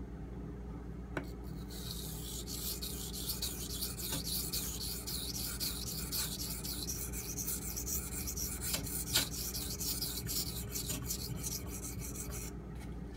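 Ontario Utilitac II's AUS-8A steel tanto blade being stroked back and forth on a Shapton Pro waterstone: a long run of quick, hissing scraping strokes, which raises a burr along the edge. A light click about a second in, and a low steady hum underneath.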